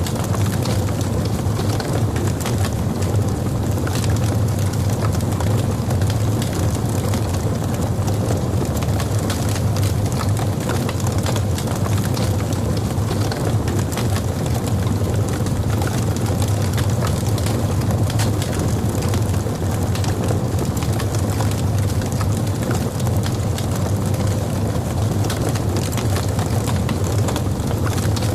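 Logs burning in a fireplace: a steady low rumble of the fire with frequent small irregular crackles and pops.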